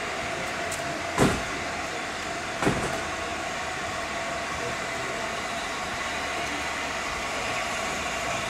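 A train running, a steady noise with two sharp knocks, one just over a second in and another about a second and a half later.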